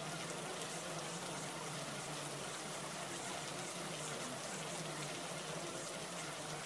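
Steady, unbroken water noise, like rushing or running water, at an even level, used as the background track of a subliminal audio.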